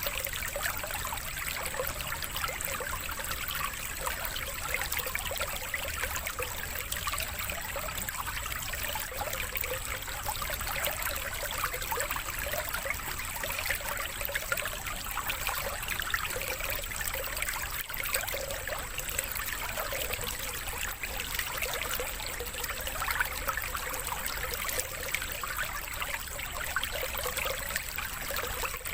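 Continuous trickling, running stream water, with a faint steady high whine.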